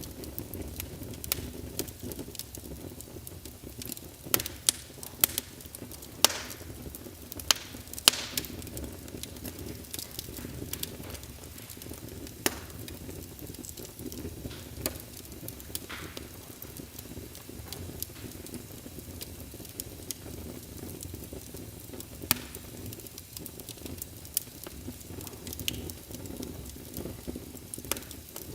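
Wood fire burning in a fireplace: a steady low rush of flames with irregular sharp crackles and pops, several louder pops coming close together about four to eight seconds in.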